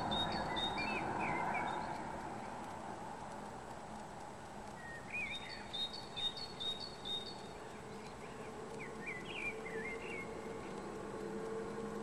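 Birds calling over a steady background hiss. A quick run of short, high chirps repeats about every six seconds, with twisting, warbling calls in between.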